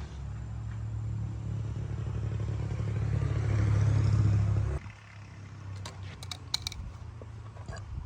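A small motorbike engine running and getting louder for about five seconds, then cutting off abruptly. It is followed by a few light metallic clicks and clatter.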